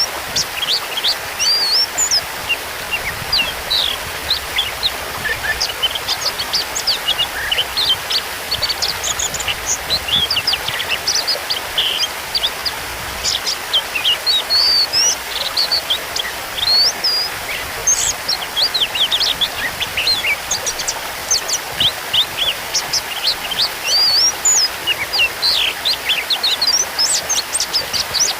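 Oriental magpie-robin (kacer) singing continuously: a rapid, unbroken run of varied short chirps, whistles and trills, over a steady background hiss.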